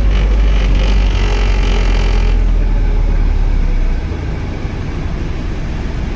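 Nissan 240SX (S13) engine running at low speed as the car creeps up onto a scale, a deep rumble that eases off about four seconds in.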